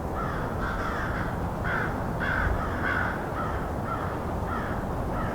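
American crows cawing back and forth, about a dozen short caws from more than one bird, over a steady low background rumble.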